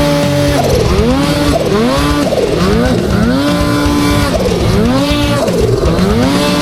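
Snowmobile engine revving over and over, its pitch climbing, holding briefly and dropping back more than once a second as the throttle is worked.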